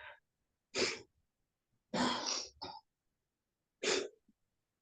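A woman's short breaths and sniffs, four of them with silence between, as she struggles with tears while speaking a eulogy.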